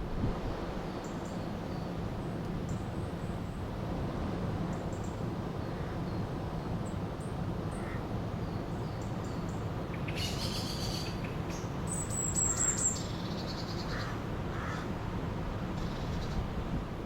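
River water flowing steadily, with birds calling over it: scattered short chirps, a louder burst of calls about ten seconds in, and a sharp high call around twelve seconds.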